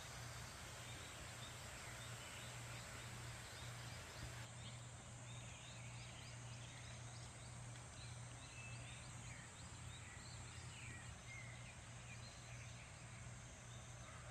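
Steady rush of flowing water with a low hum beneath it; from about four seconds in, many short bird chirps rise above it.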